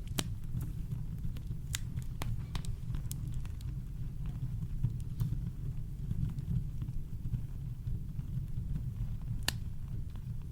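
Campfire crackling: scattered sharp pops, one louder pop near the end, over a steady deep rumble of brown noise.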